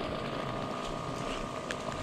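Yatri P1 electric motorcycle riding along with a steady motor whine over rough road and wind noise.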